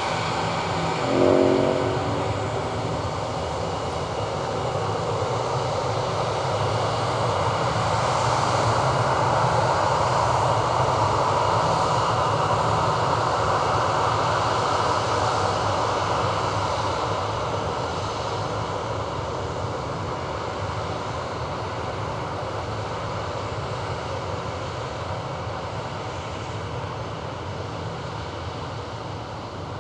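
Four-engine Airbus A340-300 jet engines running, the noise swelling for several seconds and then slowly fading. A short pitched sound comes about a second and a half in.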